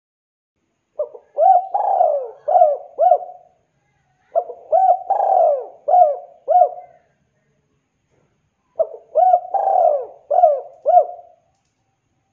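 Spotted dove (tekukur) cooing its song three times, each phrase a quick run of several rolling coo notes lasting about two and a half seconds, with a pause of a second or more between phrases.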